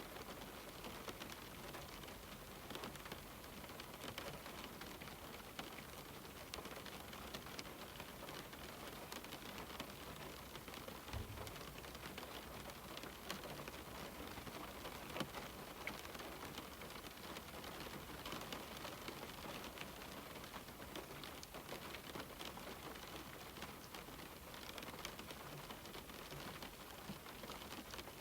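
Steady rain falling on a window pane, a continuous hiss with many small drop ticks scattered through it.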